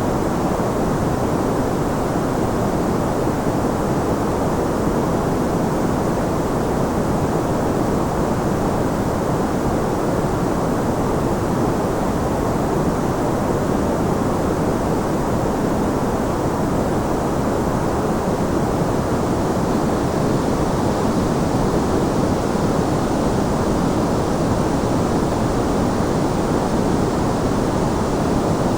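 Steady white noise, even and unchanging, with most of its weight in the low and middle range and a dull, muffled top.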